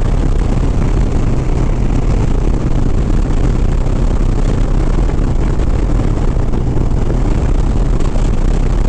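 Harley-Davidson Sport Glide's V-twin engine running steadily at highway cruising speed, with a constant rush of wind noise over it.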